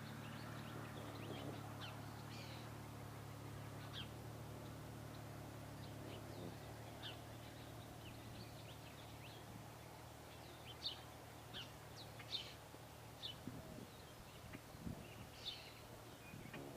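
Small birds chirping: short, high, scattered chirps, coming more often in the second half, over a low steady hum that weakens a few seconds in.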